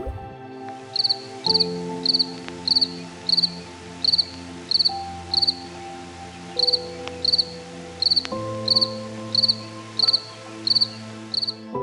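Cricket chirping: short, evenly repeated chirps, about one and a half a second, over held background chords.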